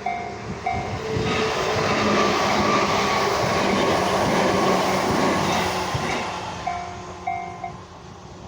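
A Tobu Isesaki Line train rushes through a level crossing, its wheel and running noise loudest for about five seconds in the middle. Over it the crossing warning bell strikes at a slow, even tempo of about one strike every 0.6 s. The bell is heard again after the train and stops near the end as the crossing clears.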